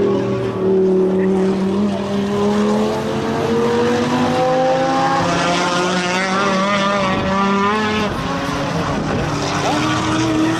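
Race car engines running hard, their pitch climbing slowly as a car accelerates, with a warbling higher-pitched note through the middle and the pitch dropping and rising again near the end.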